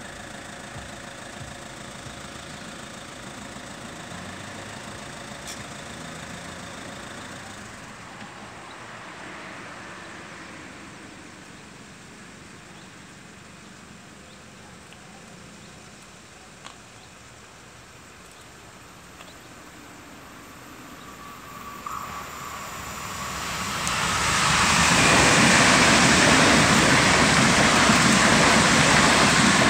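Steady low engine hum and road background, then an ICE high-speed train approaches. About three quarters of the way in it rushes through the level crossing at speed: a loud, even noise of wheels on rails and air that holds level through the last several seconds.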